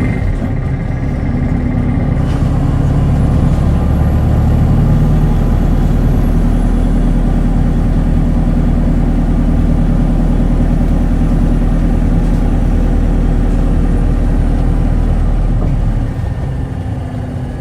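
Inside a city bus in service: its engine and road noise run steadily with a deep rumble. About 16 seconds in the lowest rumble drops away and the cabin sound gets quieter, as the engine eases off.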